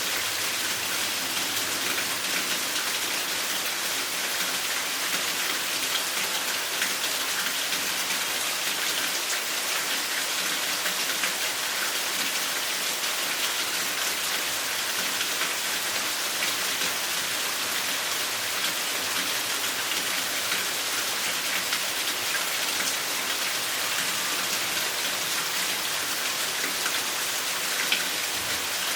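Steady rain falling: an even hiss of drops with scattered small ticks, unchanging throughout.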